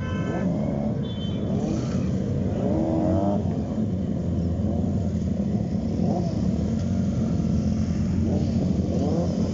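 Large motorcycle engines idling steadily, with a short horn toot right at the start.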